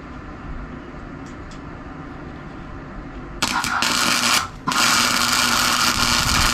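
Flux-core wire-feed welder arc sizzling loudly: it strikes up suddenly about three and a half seconds in, cuts out for a moment about a second later, then restarts and keeps going.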